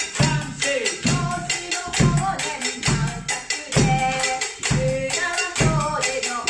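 Japanese taiko-style rhythm played on household objects standing in for drums, such as pots or buckets struck with sticks. A deep beat comes about once a second under quick, lighter strikes, with a sung melody over it.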